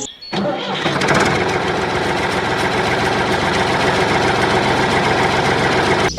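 A motor running steadily with a fast, even pulsing. It starts a moment in and cuts off abruptly near the end.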